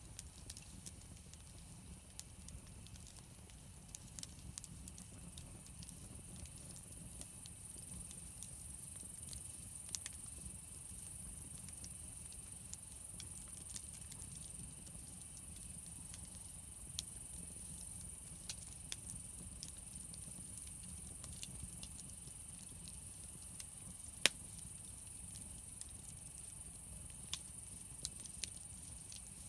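Wood campfire crackling, with scattered sharp pops over a steady low rumble; one pop about three-quarters of the way through is louder than the rest.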